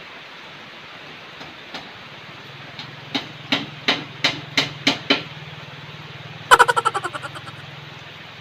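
Steady heavy rain, with a run of about seven sharp knocks at about three a second midway, then a quick rattle of clicks that dies away.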